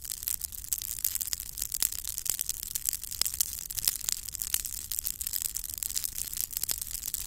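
Campfire of dry spruce wood crackling: frequent irregular sharp pops over a steady hiss.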